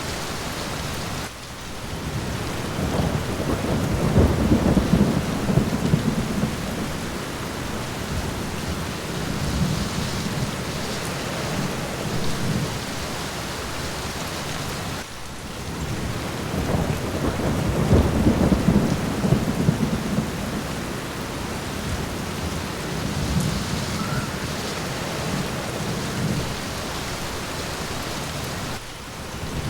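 Steady rain with low rolling thunder. The rumbles swell loudest about four seconds in and again at about eighteen seconds.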